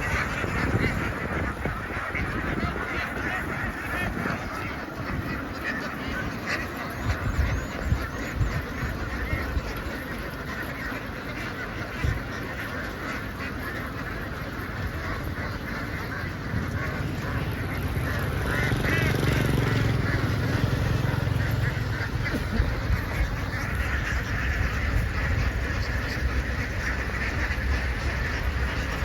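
A large flock of domestic ducks quacking all at once, a dense continuous din of overlapping calls, with a low rumble underneath for a few seconds past the middle.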